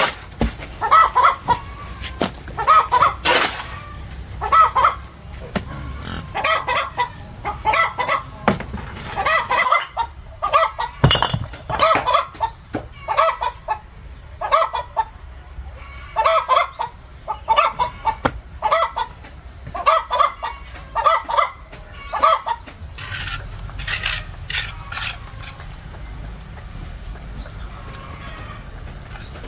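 Chickens calling: short, repeated clucking calls, one or two a second, that stop about three-quarters of the way through.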